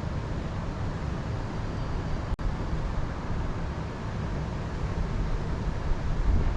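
Wind blowing, with a gusty low rumble of wind buffeting the microphone that grows a little stronger near the end; the sound drops out for an instant about two and a half seconds in.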